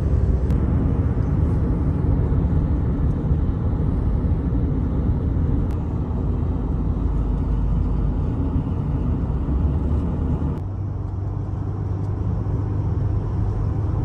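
Car driving, heard from inside the cabin: a steady low rumble of road and engine noise. About ten seconds in the rumble eases slightly and a steady low hum comes in.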